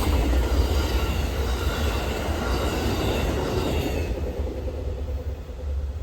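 Amtrak passenger train going by on the rails: a low rumble and wheel-on-rail noise with a faint squeal, fading as the train moves off, the higher sound dying away about two-thirds of the way through.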